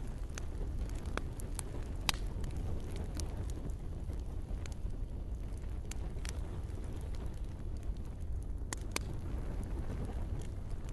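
Campfire burning: irregular sharp crackles and snaps over a steady low rumble.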